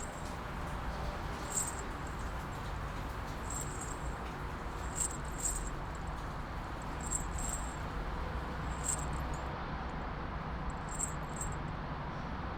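Steady rain and city background ambience with a low rumble underneath, broken about every one to two seconds by short, high, jingly metallic clinks, some in quick pairs.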